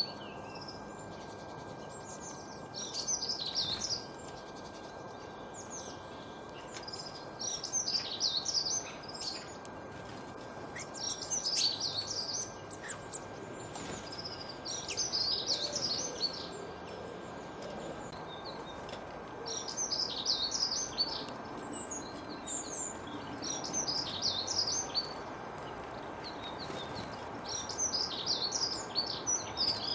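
A songbird singing short, fast, high-pitched warbling phrases, one about every four seconds, over a steady background hiss.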